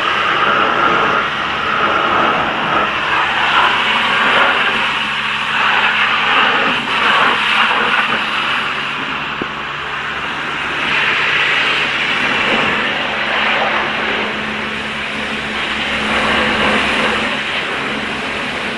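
Car wash spraying water and soap over a car, heard from inside it: a continuous rushing spray that swells and fades, over a steady machine hum.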